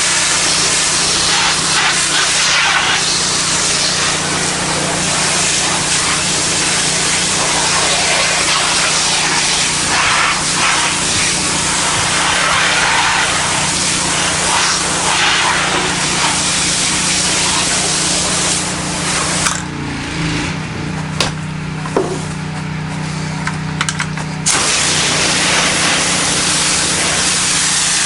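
Pressure washer spraying through a low-pressure black tip: a loud, steady hiss of water over the hum of the washer's engine, which sounds harsher than the pressure really is. Near the end the spray stops for about five seconds, leaving the engine running with a few clicks, then starts again.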